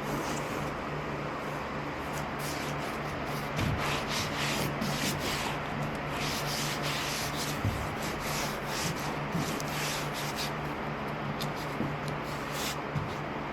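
Rigid foam board being sanded by hand: irregular scratchy back-and-forth strokes, over a steady low hum.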